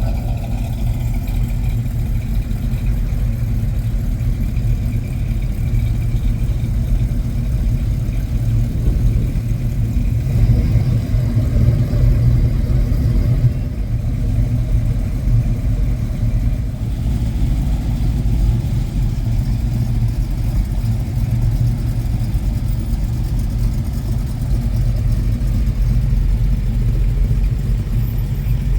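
Car engines running, a steady low rumble with no distinct revving.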